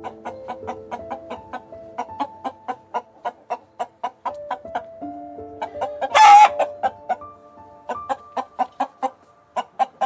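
Chicken clucking in quick short notes, about four a second, with one loud squawk about six seconds in, over background music with held notes.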